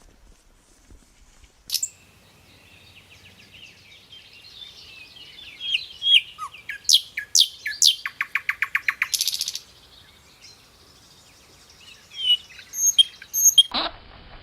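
Bird singing: a run of high chirps and falling whistles, then a fast trill of about ten notes a second, then a few scattered high notes. Near the end a louder, different call cuts in.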